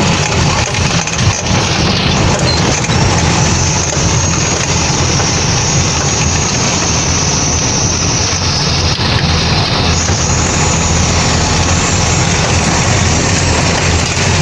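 Truck engine running steadily under a constant loud noisy hiss, with no clear change in pitch.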